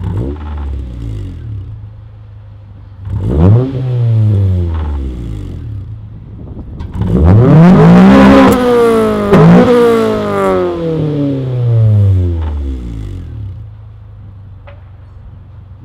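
Honda Civic EM1's 1.6-litre VTEC four-cylinder idling and revved three times through its exhaust: a short blip at the start, another about three seconds in, then a longer, higher rev about seven seconds in that rises and sinks back to idle over several seconds. A few sharp clicks come with the big rev, which the owner puts down to the exhaust tip banging off the lip.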